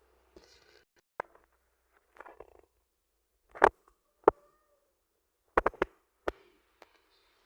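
Wooden toy train pieces knocking and clattering against each other and a hard surface: a string of sharp wooden knocks, the loudest a little past the middle and a quick cluster of three a few seconds later, with brief soft scraping between them.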